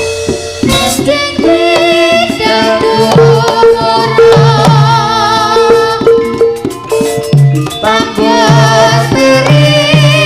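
Live Javanese jaranan (turonggo) ensemble music: repeated hand-drum strokes and ringing gong-chime notes under a wavering, vibrato-laden lead melody.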